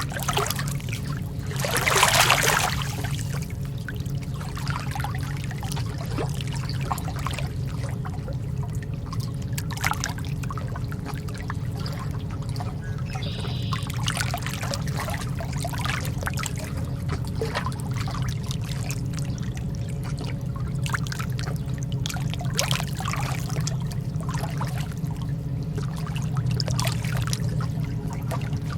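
Lake water lapping gently at the shore in small irregular splashes and trickles over a steady low rumble, with one louder splash about two seconds in.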